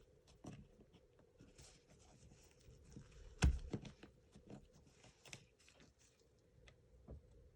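Faint clicks and rustles of hands opening up an airsoft rifle's gearbox, with one louder knock about three and a half seconds in.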